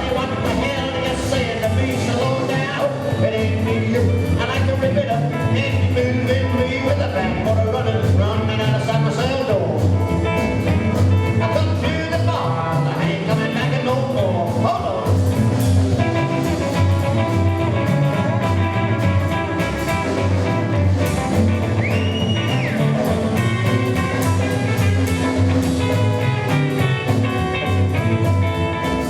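Live rockabilly band playing a 1950s-style rock 'n' roll number: drums, double bass and electric guitar at a steady driving beat.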